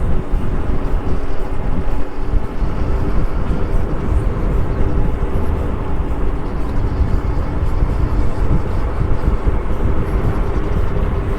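Wind rushing and buffeting over the microphone of a camera riding along on a moving Super73 electric bike, with a faint steady hum underneath.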